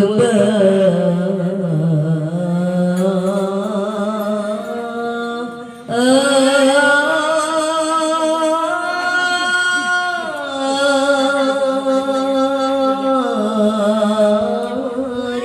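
Sholawat sung in two long, drawn-out melismatic phrases, with a short break about six seconds in.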